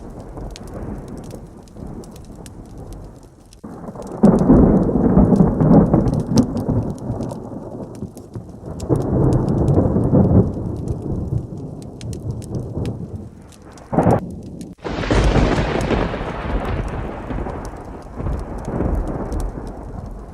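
Thunderstorm with steady heavy rain: thunder rolls in low swells twice, then a sharp crack about two-thirds of the way through is followed by a loud, close thunderclap that rumbles away over a few seconds.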